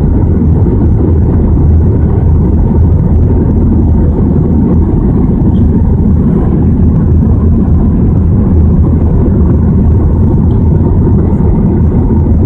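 Steady, loud drone of an Airbus A320's engines and airflow, heard inside the passenger cabin in flight: an even, low rumble that does not change.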